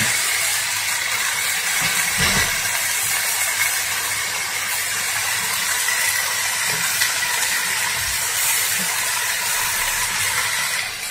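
Cauliflower and potato pieces frying in hot oil in a steel kadai, sizzling with a steady hiss.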